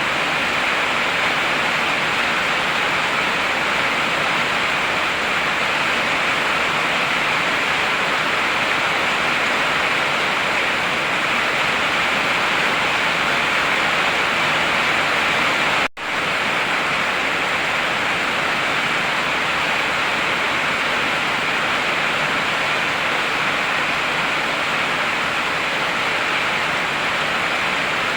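Heavy rain falling as a steady, even hiss. It cuts out for an instant about halfway through.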